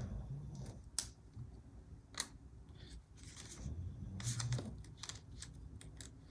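Paper and stickers being handled at a desk: sharp clicks and short rustles, the loudest clicks about one and two seconds in.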